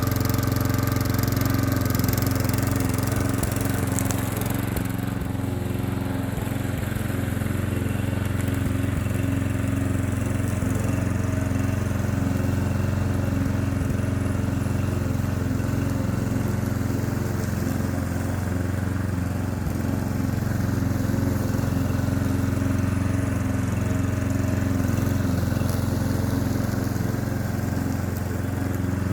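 Klippo petrol lawn mower engine running steadily at an even pitch while mowing grass.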